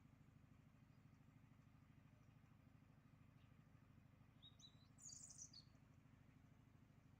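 Faint outdoor quiet with a steady low hum, and a small bird chirping briefly about four and a half seconds in.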